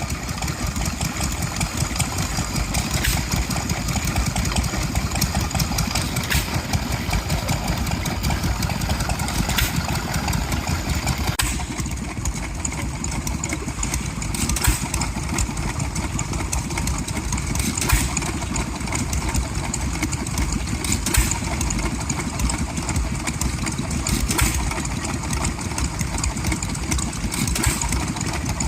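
Vintage stationary engine running steadily, with a sharp crack about every three seconds; the sound changes about twelve seconds in.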